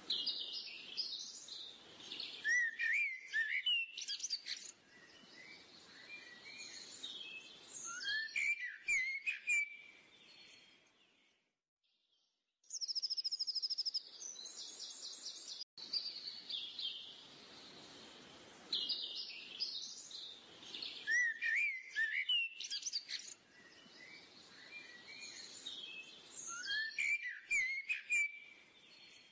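Small birds chirping and singing in quick, high whistled phrases. After a brief pause about halfway through comes a short rapid trill, and the same run of phrases then repeats, as from a looped birdsong recording.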